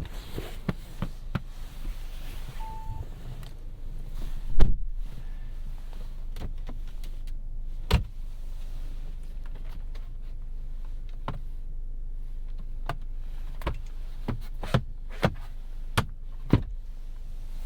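Inside a 2017 Audi A3 on the move: a steady low road and engine rumble, broken by scattered sharp clicks and knocks, the loudest about four and a half seconds in and several more in quick succession near the end.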